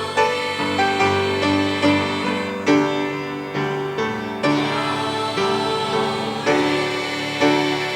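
Gospel music led by keyboard chords struck on a steady pulse, about once a second.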